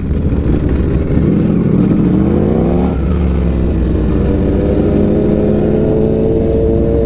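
Motorcycle engine accelerating: revs climb for about three seconds, drop at a gear change, then climb slowly again.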